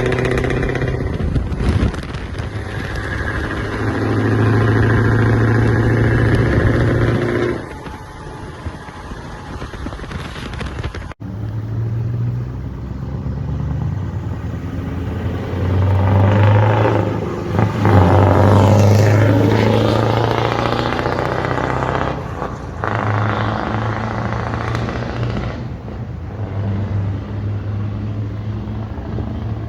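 Scania V8 diesel truck engines with open exhaust pipes, running and revving. The sound falls back somewhat a quarter of the way in, then cuts abruptly to a second truck whose exhaust swells and eases in several surges.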